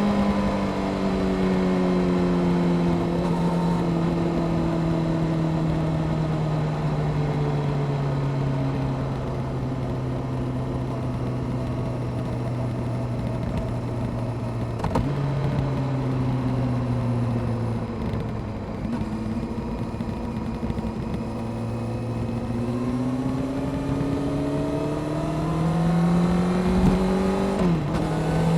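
Honda CBR600F Sport's inline-four engine on the move. Its note falls slowly for the first half as the rider rolls off, holds low, then builds again with a quick dip and climb near the end, like a gear change.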